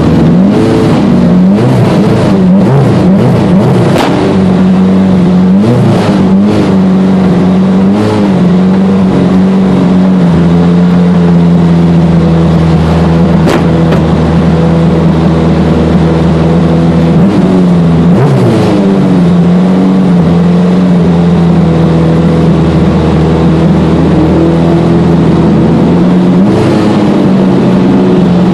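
Honda CRX drag car's engine heard from inside the cabin, running loudly with uneven throttle blips through the first several seconds, then settling to a steady idle with brief revs about two-thirds of the way through and again near the end. A few sharp clicks cut through, near the start and about halfway.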